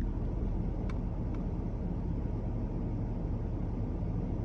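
Steady low rumble heard from inside the cabin of a 2024 GMC Sierra 2500 Denali pickup with its engine running, with two faint ticks about a second in.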